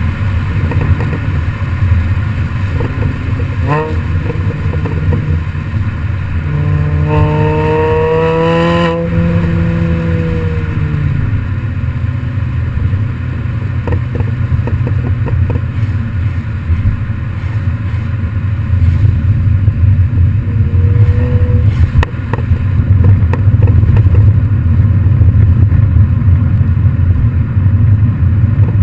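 Exhaust of a modified MINI Cooper GP running with a steady low drone. The revs rise briefly about four seconds in, climb again from about seven seconds and fall away by about eleven. It runs louder in the last third.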